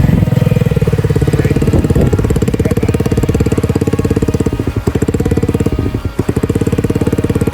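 Small mini bike engine running close by with a fast, even firing beat. It falls off briefly twice in the second half as the throttle eases.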